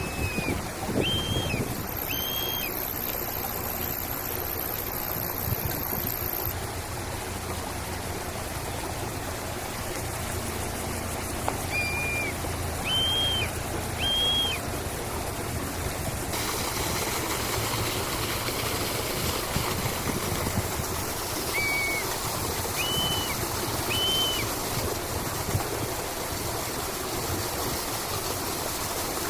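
Steady running water of a stream, with a bird repeating a short phrase of three clear notes three times, about ten seconds apart.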